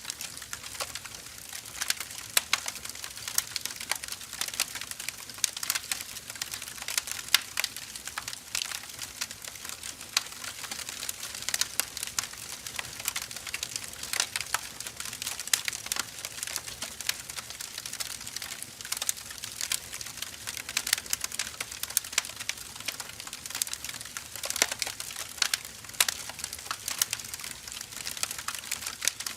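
Split firewood burning, crackling with many irregular sharp pops and snaps over a soft hiss.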